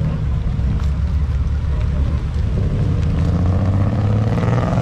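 Car engine running at low speed with a deep, steady exhaust rumble.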